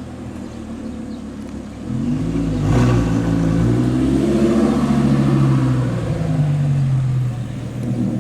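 Supercar engine accelerating hard about two seconds in, its pitch rising, with a brief sharp crack near three seconds. It then runs loud for several seconds before dropping away near the end.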